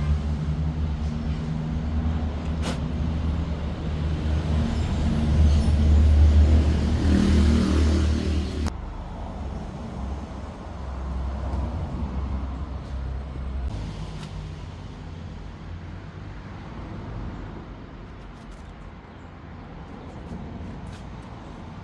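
Low rumble of a motor vehicle's engine with a steady low hum. It cuts off abruptly about nine seconds in, leaving a fainter rumble that slowly fades.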